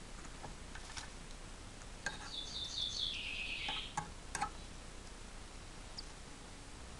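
A quick run of high chirps about two seconds in runs into a brief rasping hiss lasting about a second, with a few sharp clicks around it: a young bird calling from a leaf nest.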